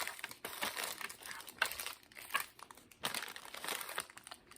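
Candy-bar wrapper crinkling and crackling as it is handled and opened, in irregular small crackles and clicks.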